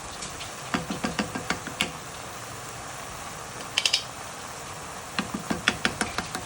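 Kitchen work sounds: a run of quick, light knocks, about six a second, then three sharp clicks, then another run of knocks.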